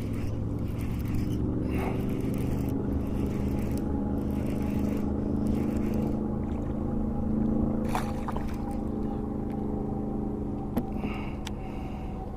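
A motor running steadily with a low, even drone that rises a little in pitch midway, with a few sharp clicks over it.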